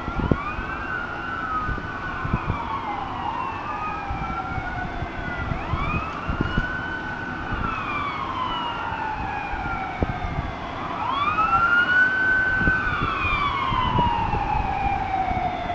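Several emergency-vehicle sirens wailing at once, their rising and falling sweeps overlapping and out of step with each other.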